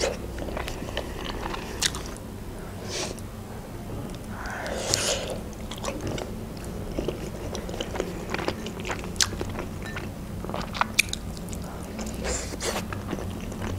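Close-up chewing and biting of khinkali, Georgian meat dumplings, eaten by hand: wet mouth clicks and smacks scattered throughout, with a few longer noisy rushes about three and five seconds in.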